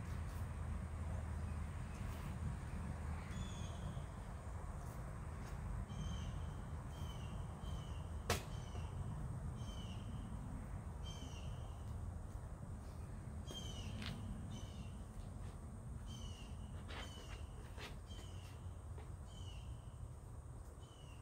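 A bird calling over and over outdoors: short, high, even notes repeated roughly once a second, starting a few seconds in. One sharp click about eight seconds in, over a steady low rumble.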